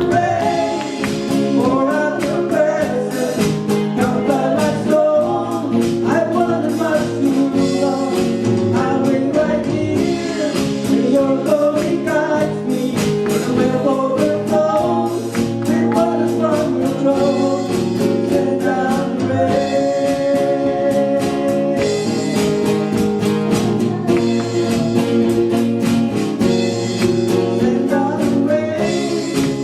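Singing of a gospel song with guitar accompaniment.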